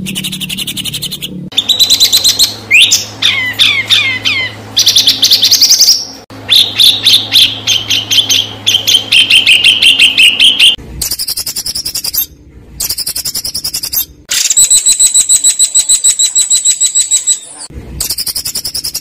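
Songbird masteran recording with harsh, sharp song: fast trills and chatter of rapidly repeated high notes, a run of falling whistles a few seconds in, and a long buzzing trill near the end, broken by abrupt cuts between spliced passages. A low hum sits under the first half.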